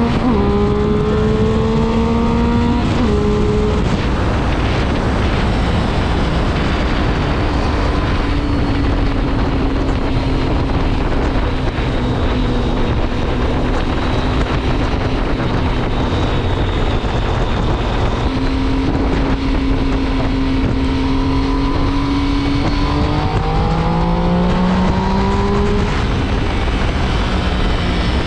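2006 Triumph Speed Triple's 1050 cc three-cylinder engine and exhaust under way: it climbs in revs for about three seconds, shifts, then holds a steady cruising note under wind rush. Near the end the note drops and climbs again as the bike pulls through the revs once more.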